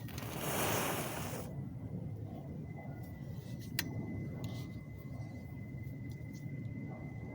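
A match struck and flaring with a hiss for about a second and a half, then a low steady rumble with one sharp click just under four seconds in.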